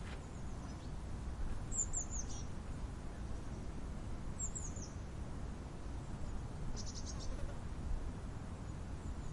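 Steady low wind rumble with a small bird's high, thin calls: a quick run of falling notes about two seconds in, another midway, and a short fast trill later on.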